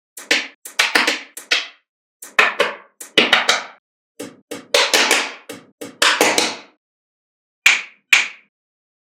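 Small magnetic balls clicking and snapping together as they are placed, in quick runs of sharp clicks separated by short silent pauses, with two single clicks near the end.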